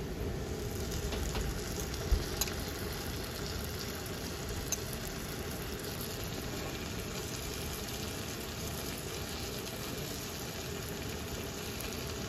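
Sambal of chilli, shallot and dried shrimp sizzling steadily in a frying pan as tamarind water is added. There are a few sharp clicks of a metal fork against the bowl and pan about two seconds in and again near five seconds.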